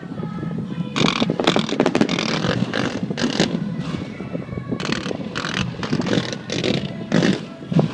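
Fireworks going off in quick succession: an irregular run of bursts and crackles, several a second, over a steady low rumble.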